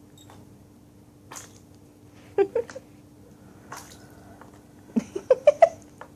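Harris hawk splashing in its bath water, in two short bursts of quick splashes, one about two and a half seconds in and a louder one about five seconds in.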